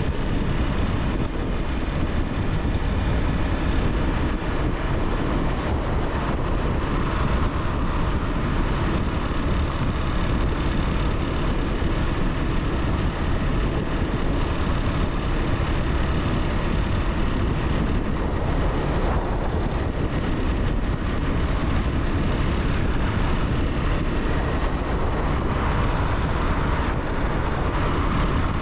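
Honda CBR300R's single-cylinder engine running steadily under way, with heavy wind rush over the microphone.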